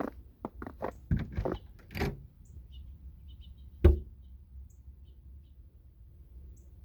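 A quick run of clicks and knocks, then one loud thump about four seconds in; after it only faint, high, scattered chirps.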